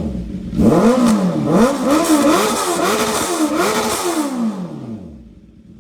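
Motorcycle engine through a custom full exhaust system, its throttle blipped so the revs rise and fall about five times in quick succession, then dropping back toward idle near the end.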